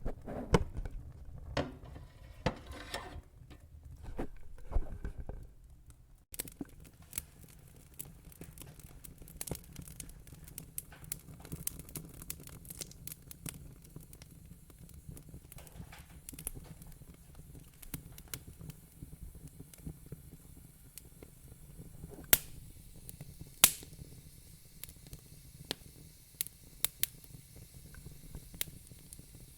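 Wood fire in a fire pit crackling, with irregular sharp pops and snaps over a low hiss. The sound cuts out briefly about six seconds in.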